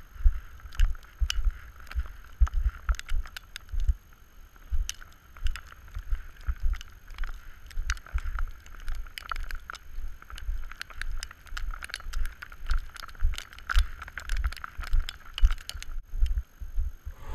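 Gusty wind buffeting the microphone in a blizzard, with many scattered sharp ticks.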